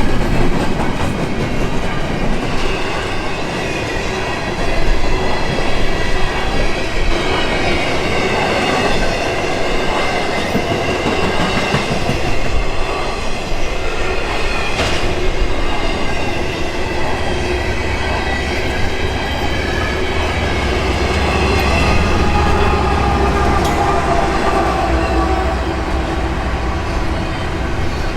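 Freight train cars rolling past on an intermodal container train: continuous wheel-on-rail noise with clacking over the rail joints and a thin high squeal from the wheels. A deeper rumble comes in about two-thirds of the way through.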